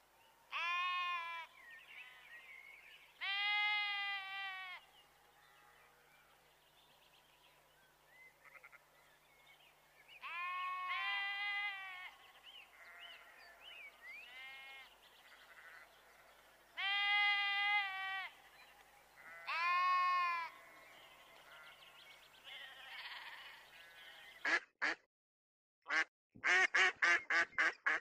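Sheep bleating five times, each call about a second long with a wavering pitch, a few seconds apart. Then, near the end, a domestic duck quacking in a quick series of short calls.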